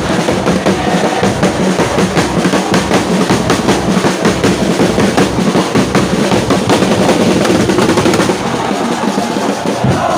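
Supporters' drums beating fast and loud in a stadium crowd, with the massed noise of the fans behind them.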